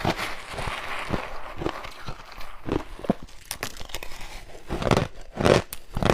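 Ice being bitten and crunched in the mouth close to the microphone. A grainy crackle runs for about the first two seconds, then comes a string of separate crunches, the loudest near the end.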